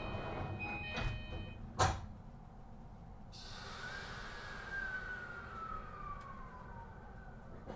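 The door-closing chime of a JR East E235-1000 series train, then the doors slam shut with a thud about two seconds in. A hiss of air starts soon after, and a whine from the train's traction equipment glides down in pitch as the train pulls away.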